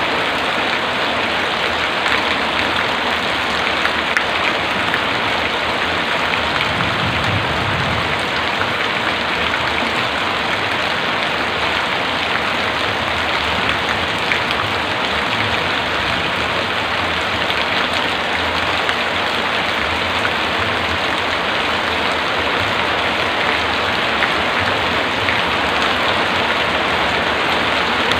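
Heavy rain falling steadily, an even hiss of drops on surfaces, with a brief low rumble about seven seconds in.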